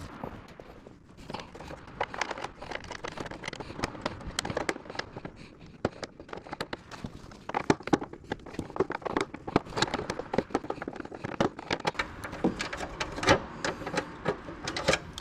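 Irregular clicks, clinks and scrapes of hand work on metal car parts and tools.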